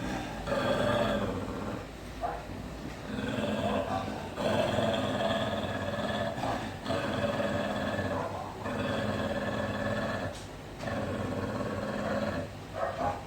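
Dog growling in a row of long growls of about two seconds each, broken by short pauses for breath, about six in all.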